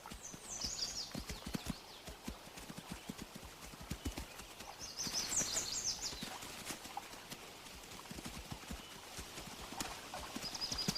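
Running footfalls of a wood bison and attacking wolves: a rapid, irregular patter of dull hoof and paw thuds. Short high chirps come in three brief bursts, near the start, in the middle and at the end.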